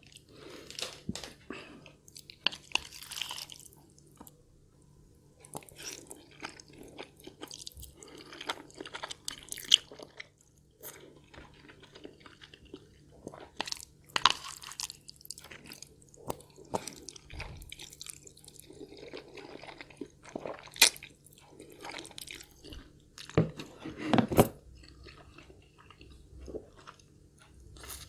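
Close-miked chewing and eating of instant Korean black bean noodles (jjajangmyeon): irregular mouth sounds and bites with a few sharp clicks, the loudest about ten seconds in and around twenty-one and twenty-four seconds in.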